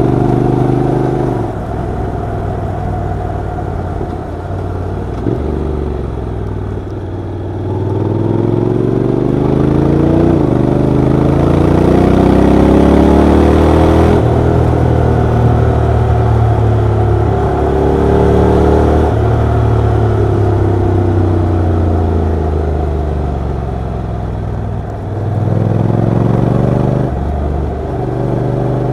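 Honda NC750X parallel-twin motorcycle engine and exhaust heard while riding. The engine note repeatedly climbs under acceleration, steps at gear changes and falls back as the bike slows, with a longer climb in the middle and another rise near the end.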